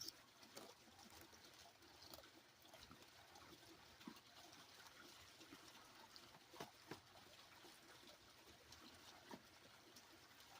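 Near silence: faint room hiss with a few soft, scattered clicks and small knocks.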